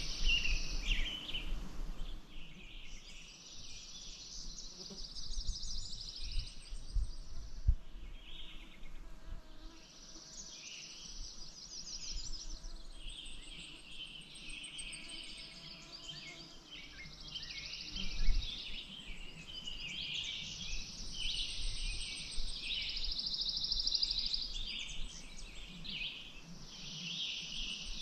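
Several songbirds singing, with overlapping chirps and rapid high trills, and a few low bumps in between.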